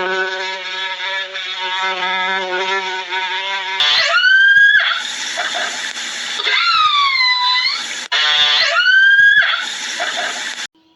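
Animal calls: a long, steady, pitched call with a slight waver for about four seconds, then a run of loud, high squealing calls that glide up and down, breaking off just before the end.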